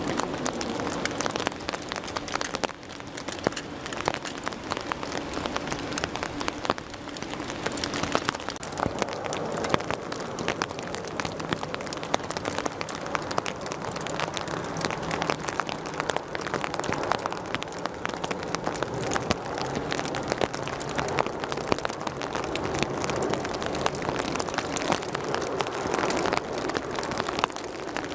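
Steady rain with many fine, irregular patters of drops hitting a surface close to the microphone, over a faint low steady hum.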